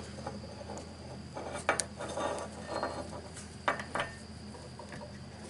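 Scattered light metal clicks and clinks of hand tools working on a car starter solenoid while its cotter pin is pulled, with a pair of sharper clicks a little under two seconds in and another pair about four seconds in.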